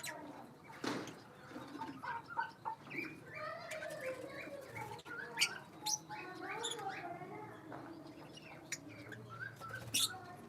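Small aviary birds chirping and chattering in many short calls, with a few sharp, shrill chirps standing out, the loudest about five seconds in and another near the end.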